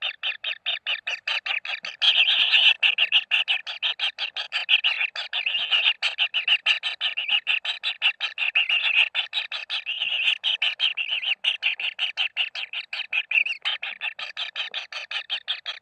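Kingfisher chicks begging in the nest: a fast, even train of short raspy calls, about five a second. About two seconds in, more chicks join, making the calls louder and denser, and they ease back near the end.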